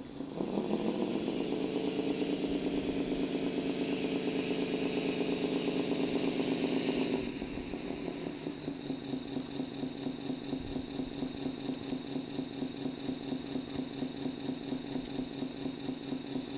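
Volvo FMX dump truck's diesel engine catching just after the start, running at a raised idle, then dropping suddenly to a lower, steady idle about seven seconds in.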